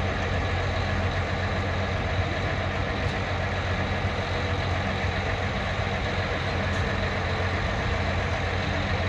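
An engine running steadily, a low hum with no change in speed.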